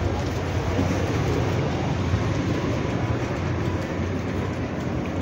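Steady low rumble and hum of a standing passenger train's machinery, even and unbroken.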